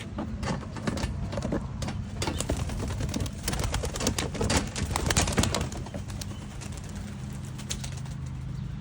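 Young homing pigeons flapping their wings, a dense run of sharp wing claps and clatter that lasts about six seconds and then stops, over a steady low hum.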